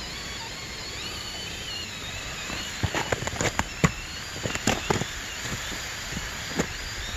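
Small electric motor of an SCX24 micro RC crawler whining and wavering in pitch, then a cluster of sharp clicks and knocks about halfway in, typical of the little truck's tyres and chassis knocking over rock. A steady rushing noise lies underneath.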